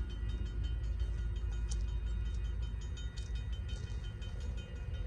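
VIA Rail passenger train approaching with a steady low rumble, a bell ringing steadily over it.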